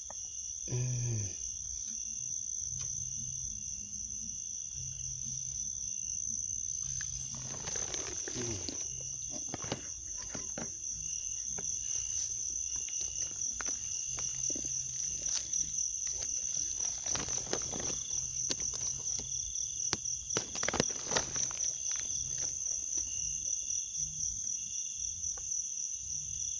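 Insects trilling steadily in a high, finely pulsing chorus, with scattered clicks and brief rustling noises over it.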